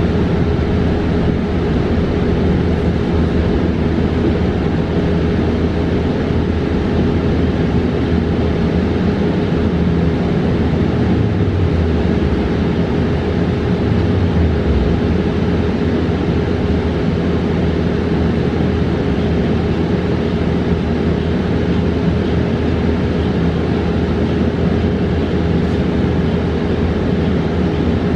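Interior of a New Flyer XE40 battery-electric bus under way: steady road and tyre rumble with a constant hum throughout. About halfway through, a low tone falls in pitch.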